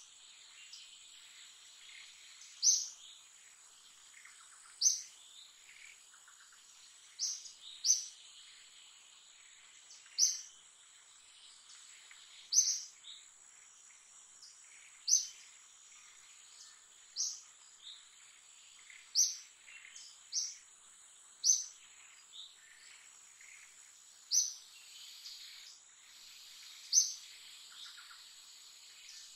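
A bird repeating a short, sharp, high call every two to three seconds, sometimes twice in quick succession, over a steady high-pitched insect drone.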